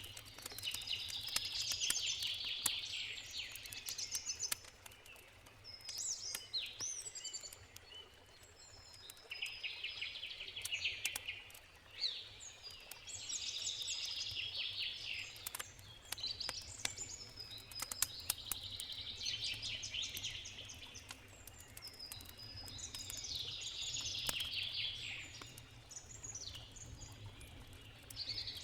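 A songbird singing a rapid, trilling phrase every four to five seconds, with campfire crackles as scattered sharp clicks and a steady low rumble underneath.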